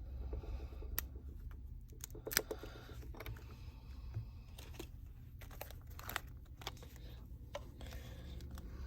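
A sharp tool prying under the back glass of a Samsung Galaxy S8 Plus, with scattered small clicks and scrapes of metal on glass and adhesive over a steady low hum.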